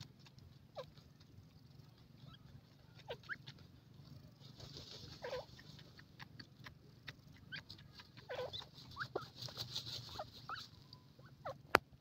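Faint, scattered short chirps and squeaks from birds, a dozen or so spread through, with light ticks between them. A higher, fainter twittering swells briefly about five seconds in and again near ten seconds, and a sharp click comes near the end.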